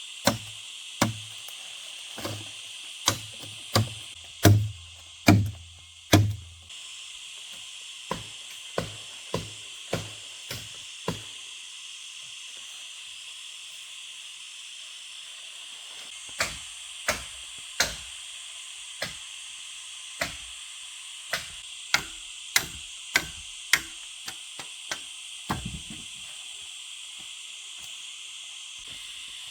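A series of sharp knocks, roughly one a second. Heavy, thudding strokes come in the first six seconds, then lighter, sharper knocks follow with a pause of a few seconds in the middle. A steady high hiss runs underneath.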